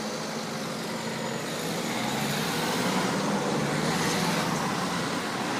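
Heavy engine running with a steady low hum that rises slightly in pitch and grows a little louder about two seconds in.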